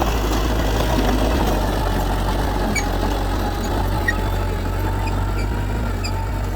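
Diesel engine of heavy earthmoving machinery running steadily with a low, even hum, with a few faint high chirps scattered through.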